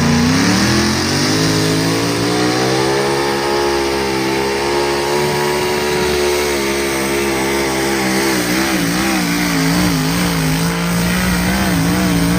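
A mini rod pulling tractor's engine running at high revs under load during a pull, rising in pitch over the first second or two and then held high, with the revs wavering up and down in the last few seconds.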